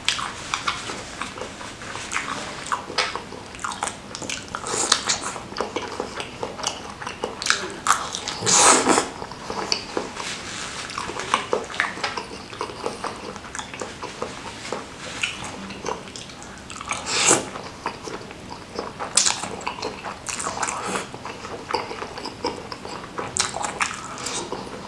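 Close-miked eating sounds: a person chewing dense beef meatballs (bakso) with wet smacking and many short clicks. Two louder, longer mouth sounds come about 9 and 17 seconds in.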